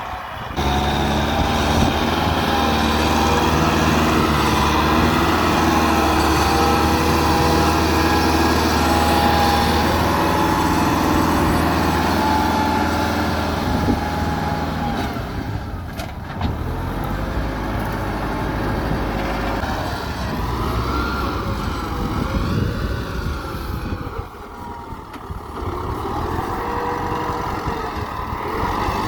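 Tractor engine running steadily under load, then changing note about halfway through, with brief breaks in the sound around the middle and near three quarters of the way.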